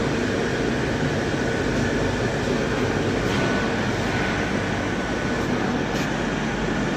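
5 kg Megatherm induction melting furnace running: a steady, unbroken machine hum and rush with a faint constant whine over it.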